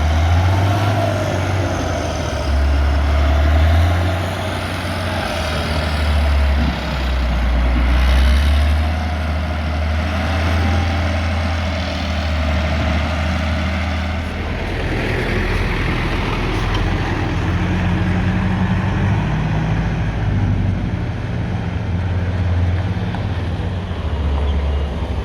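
Heavy diesel engine running with a deep rumble that rises and falls under changing load. A wavering whine sits above it in the first half, and the sound changes character about halfway through.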